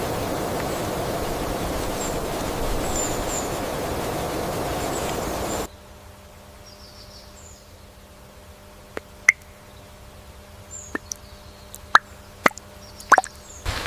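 Steady rain-like hiss that cuts off abruptly about six seconds in, followed by a quieter stretch of scattered sharp drips and ticks, several of them loud, toward the end.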